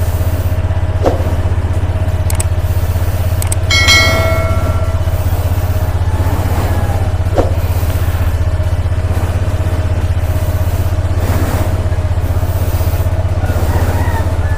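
Honda ADV 160 scooter's single-cylinder engine idling steadily, with a brief metallic clink about four seconds in.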